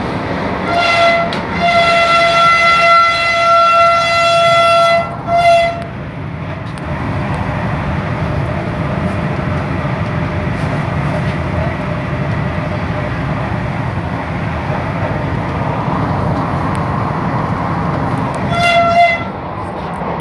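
Train horn sounding one steady single-pitched blast of about five seconds, briefly broken near its start and ending with a short toot, over the steady rumble of a running train; a second short horn blast comes near the end.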